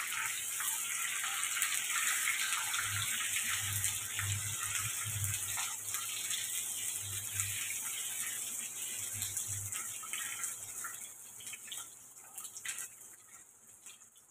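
Onion and capsicum sizzling in hot oil in a wok, stirred with a wooden spatula that knocks against the pan. The sizzle dies down over the last few seconds.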